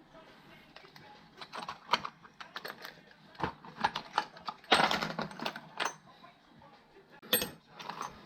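Metal tools and parts clinking and clattering: a run of irregular sharp knocks, loudest about halfway through and again near the end.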